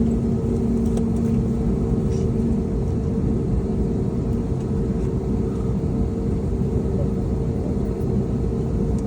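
Airliner cabin noise aboard an Airbus A321neo during taxi: a steady low rumble with an even engine hum.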